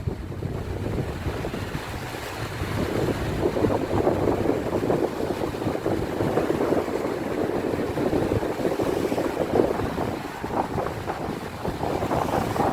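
Sea waves and wind, with wind buffeting the microphone: a steady, rough rushing that rises and falls.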